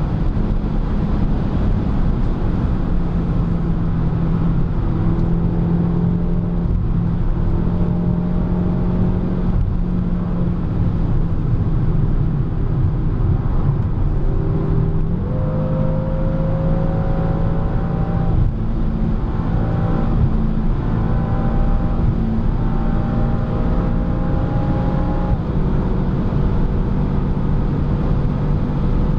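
BMW M6 (F12) twin-turbo V8 heard from inside the cabin at autobahn speed, its note climbing slowly as the car pulls. The pitch steps up about halfway through and drops back twice later as the gearbox shifts, over steady road and wind noise.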